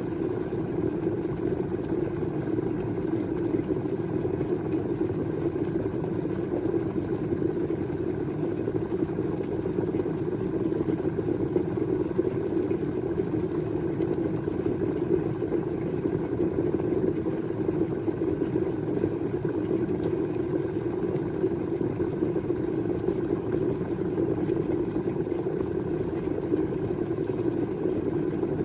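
Stainless-steel electric kettle heating water, giving off a steady low rumble that holds even throughout.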